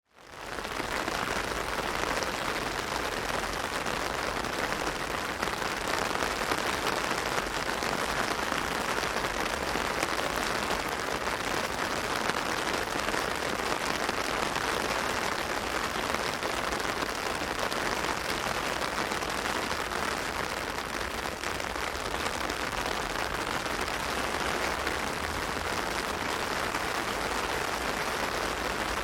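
Heavy rain falling steadily on an umbrella, a dense even patter that fades in at the very start.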